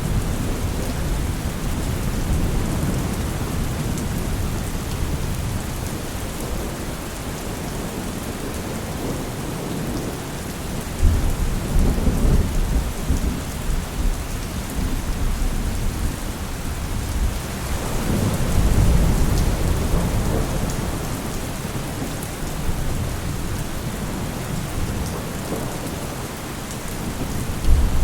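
Steady heavy rain with rolling thunder: a low rumble breaks in sharply about eleven seconds in, another swells up a few seconds later, and a third starts near the end.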